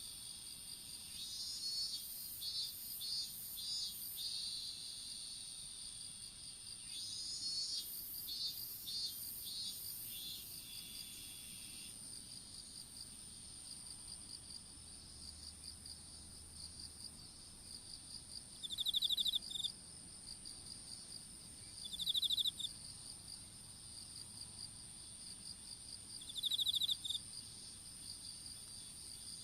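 Chorus of field insects calling: a steady high-pitched trill runs throughout, with bursts of faster chirping in the first ten seconds. In the second half a louder short chirp repeats about every three to four seconds.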